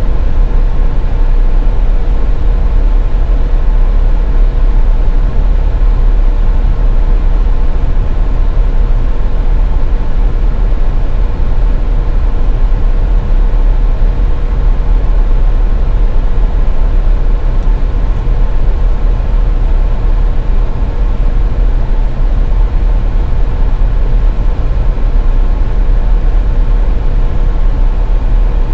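Steady road noise from a car driving on a highway: a loud, unchanging low rumble with a faint steady hum above it.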